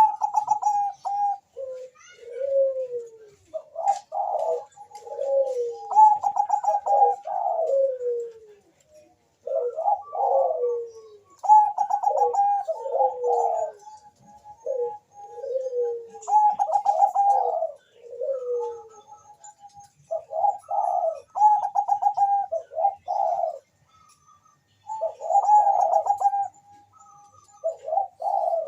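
Zebra dove (Bangkok-strain perkutut) cooing in quick repeated phrases: rolling, trilled notes and falling coos one after another, with a brief pause about three quarters of the way through.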